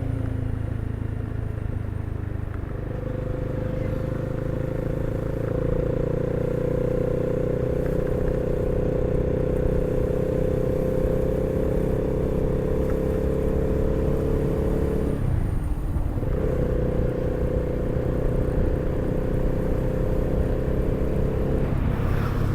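Honda CB300R's single-cylinder engine pulling under way, its pitch climbing slowly. About two-thirds of the way through it drops briefly, as in a gear change or roll-off, then picks up and runs steadily again.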